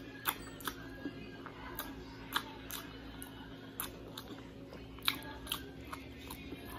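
Close-up eating sounds of a mouthful of rice and laing taken by hand and chewed: irregular wet smacks and clicks of the lips and mouth.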